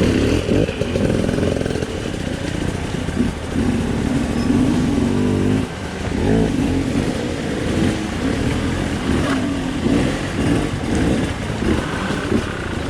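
Enduro dirt bike engine revving up and down as it is ridden, the pitch rising and falling continually, with a brief drop in revs a little past halfway.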